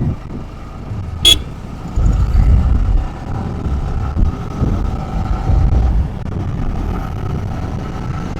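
Motorcycle riding along a road, heard from a helmet-mounted camera: engine and wind buffeting the microphone in a heavy, gusty low rumble, with faint steady tones above it. A single sharp click about a second in.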